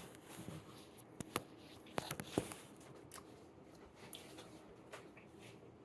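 A few light clicks and taps, clustered about one and two seconds in, over quiet room tone.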